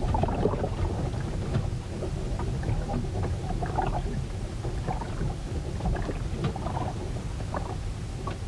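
Storm ambience aboard a ship: a steady low rumble of wind and rough water, with irregular splashes and small knocks against the hull.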